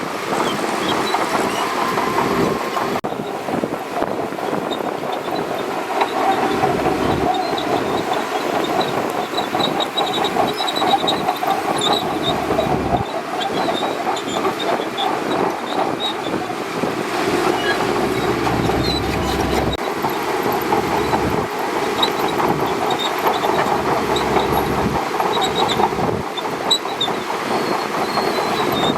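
Shantui DH17C2 crawler bulldozer running and moving on its steel tracks, with a dense mechanical din and short high squeaks scattered throughout.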